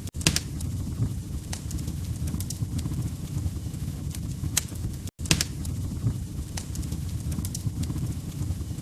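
Fireplace fire burning, with a steady low rumble and irregular sharp crackles and pops from the logs. The sound cuts out for an instant twice, just after the start and about five seconds in.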